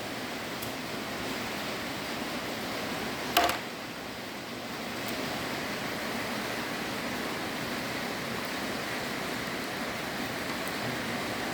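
Steady background hiss, broken once by a short, sharp sound a little over three seconds in.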